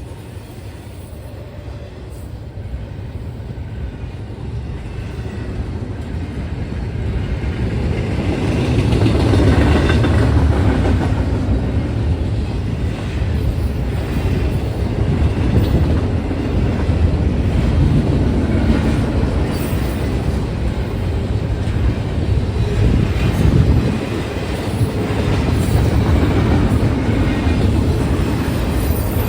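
Union Pacific intermodal freight train passing, a heavy rumble of wheels on rail that grows louder over the first nine seconds or so and then keeps up steadily.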